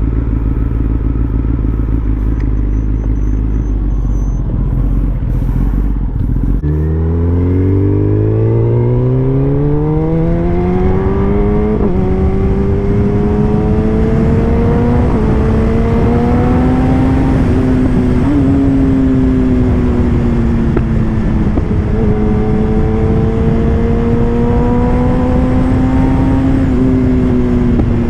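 Superbike engine pulling away about six seconds in, its pitch climbing quickly and dipping briefly at each of several gear changes, then holding a steady cruise over wind rush.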